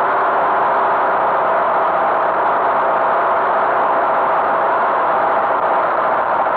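Tractor engine running steadily with an even drone, no change in speed.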